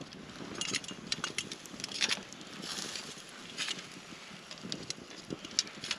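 Campfire crackling, with scattered sharp snaps and pops over a low hiss as food cooks on the fire.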